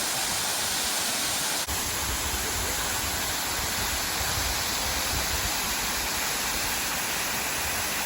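A big waterfall pouring, a steady rush of falling water. It breaks off for an instant about two seconds in and comes back with more low rumble.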